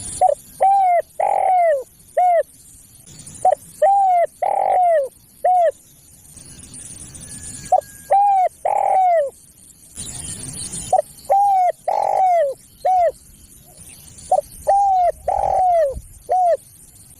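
Spotted dove (tekukur) cooing: five phrases, one about every three and a half seconds. Each phrase is a few short coos with one longer, drawn-out coo in the middle.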